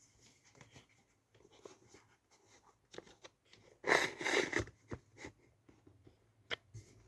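Computer power-supply cables and connectors being handled: scattered rustling and light plastic clicks, with one louder rustle about four seconds in and a sharp click near the end.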